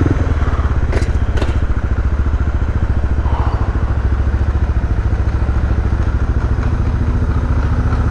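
Suzuki DR650's single-cylinder engine running at a steady low idle, with an even pulse, and two sharp clicks about a second in.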